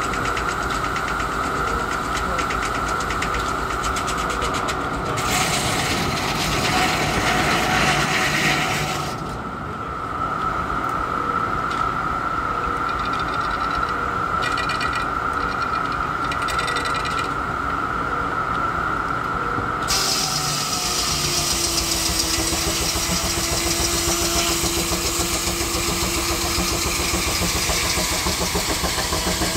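Steam-powered sawmill running, its saw blade giving a steady high whine. A louder rushing stretch comes about five to nine seconds in, and the sound changes abruptly twice.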